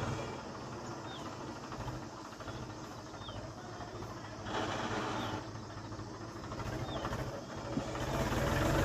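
Steady low rumble with a faint, short high chirp about every two seconds, and a louder rush of noise for about a second midway.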